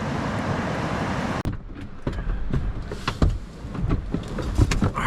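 Steady rushing of a river, which cuts off abruptly about a second and a half in. A quieter stretch follows with several scattered knocks and clunks of something being handled.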